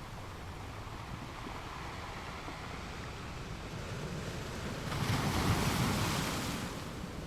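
Ocean waves breaking on a shore: a steady surf wash with a low rumble, and one wave swelling into a louder crash about five seconds in that then washes back.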